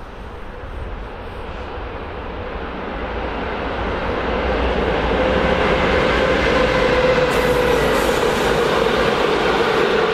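A train approaching, its rolling rumble growing steadily louder over the first several seconds and then staying loud as it comes by, with a faint steady whine underneath.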